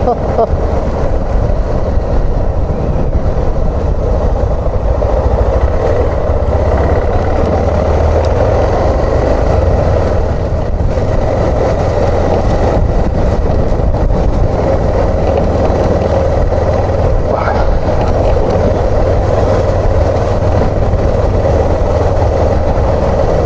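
Suzuki XF650 Freewind's single-cylinder engine running steadily at a cruise, with wind and road noise.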